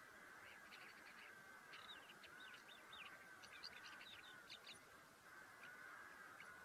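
Faint birds calling: a quick run of short, high chirps from about half a second in until about five seconds in, over a faint steady hiss.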